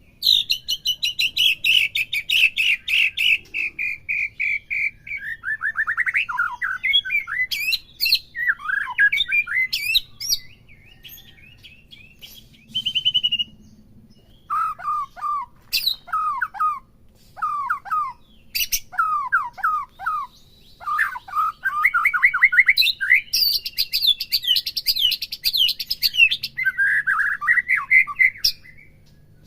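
White-rumped shama singing a long, varied song of whistles, fast trills and harsh chattering notes, phrase after phrase with only brief pauses. It is a fired-up bird in full song, the kind used as a provocation recording to set other shamas singing.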